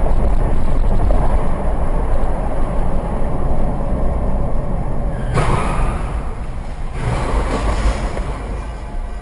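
Moving vehicle's steady road and engine noise, with two louder hissing surges about five and about seven seconds in.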